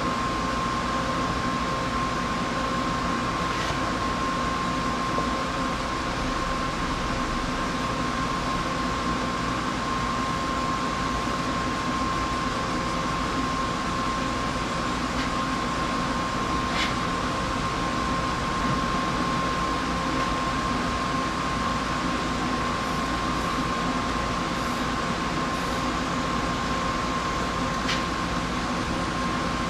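Steady mechanical hum with a constant high whine, broken only by a few faint clicks.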